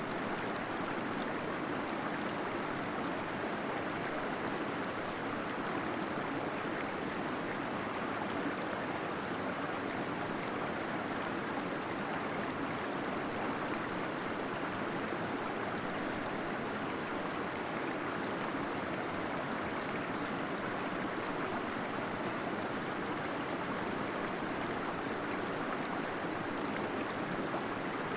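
Small waterfall in a cave: water pouring and gurgling in a steady, unchanging rush.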